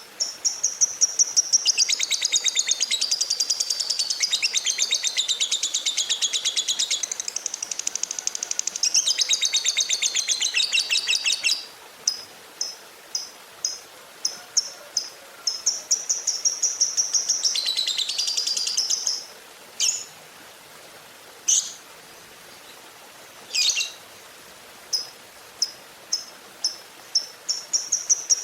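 Lovebird chattering in long, rapid trills, broken by runs of short chirps about two a second and a few single sharp calls.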